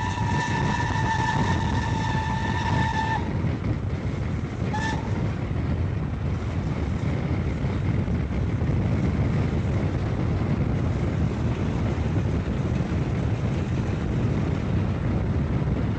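Steam locomotive whistle: one long blast that stops about three seconds in, then a short toot about five seconds in, over the steady low rumble of the train running.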